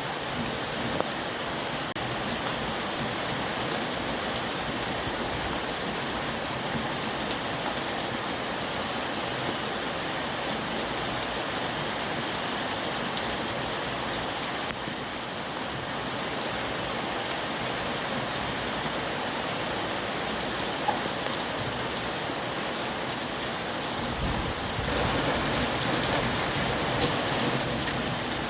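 Heavy rain falling steadily as a dense, even patter, louder for the last few seconds.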